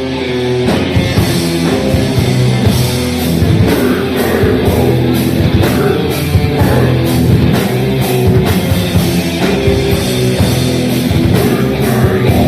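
Death metal band playing live: heavy distorted guitars and bass over a regular pattern of drum hits, with some vocals.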